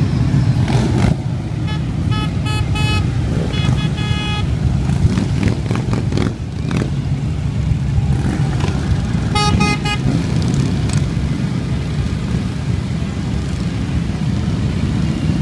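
Massed motorcycle engines running in a steady low rumble as a ride goes by, with runs of short horn beeps about two to four seconds in and again near ten seconds.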